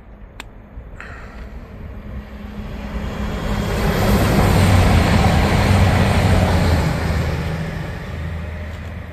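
Passenger train passing on the main line, its rumble and wheel-on-rail noise building to a peak about halfway through and then fading away, with a steady low hum underneath.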